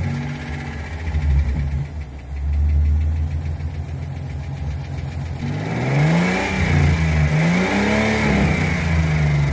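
1998 Ford EL Falcon engine idling just after start-up, with a fine ticking. From about five seconds in it is revved up and down a few times. The owner traces the tick to the top end and is fixing it with a new cylinder head, cams and valve springs.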